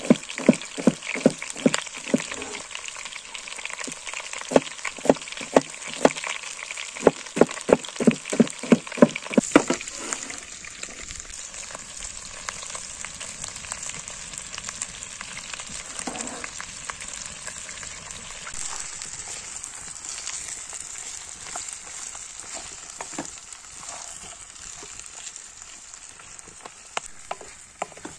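Food sizzling as it fries in a pan, a steady hiss with scattered crackles. For the first ten seconds or so a quick run of sharp knocks, two or three a second, sounds over it.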